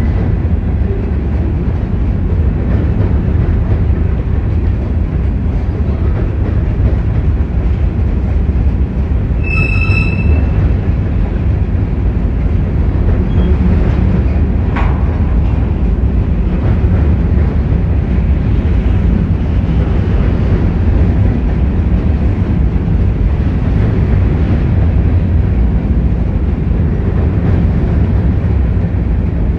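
Freight train rolling past with a steady low rumble. A brief high-pitched wheel squeal comes about ten seconds in.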